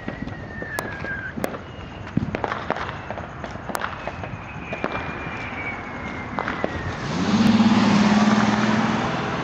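Consumer fireworks going off: long whistles that slide down in pitch, scattered sharp pops and crackles, and a louder hissing rush with a low hum starting about seven seconds in.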